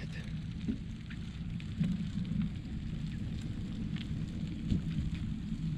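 Bicycle riding noise: a steady low rumble of wind on the microphone and tyres rolling over the road, with scattered small clicks and crackles.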